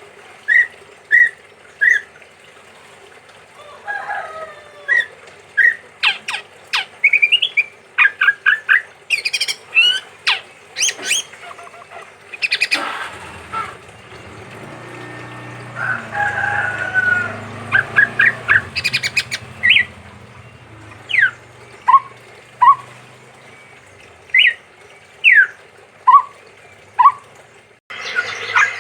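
Male chestnut-rumped babbler (tepus tunggir merah) singing: a varied run of short, sharp chirps and quick whistled notes, some in rapid clusters, others spaced out. For a few seconds in the middle a low rumble sits underneath the song.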